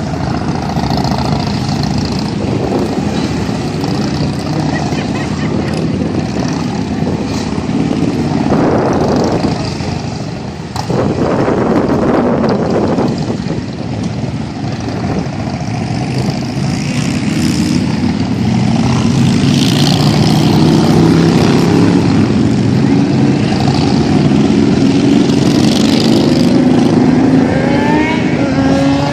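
Harley-Davidson police motorcycles' V-twin engines running at low speed and being blipped as the bikes make tight manoeuvres, the engine note rising and falling. Near the end an engine revs up with a rising pitch.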